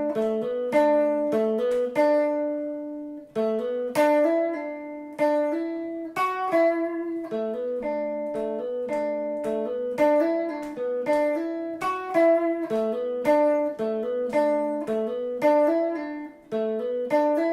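Guitar playing a single-note lead lick, a quick run of plucked notes on the D and G strings. About two seconds in, one note is held and dies away briefly.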